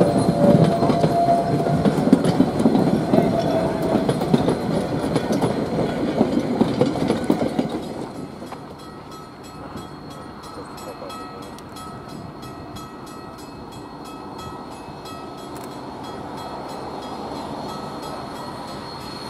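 Narrow-gauge wooden passenger coaches and caboose rolling past on a curve, wheels clicking over the rail joints with brief flange squeals. After about eight seconds the sound drops to a quieter, steady distant rumble.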